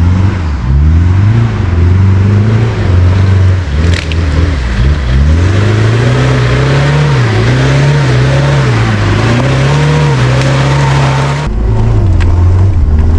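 Off-road SUV engine revving up and down again and again under load, over a steady rushing noise, with a single knock about four seconds in. The sound changes abruptly near the end, as at a cut.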